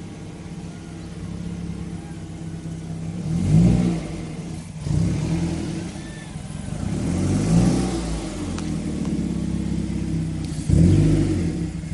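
Mazda3 engine running through a CorkSport cat-back exhaust, with the revs rising and falling back several times.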